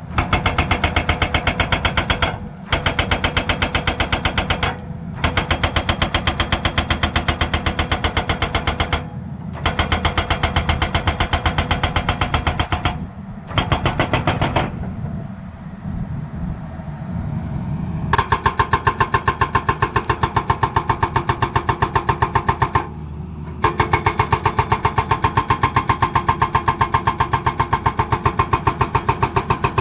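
Excavator-mounted hydraulic breaker hammering in rapid, even blows, stopping briefly every few seconds. The diesel engine runs underneath and is heard alone for about three seconds around the middle.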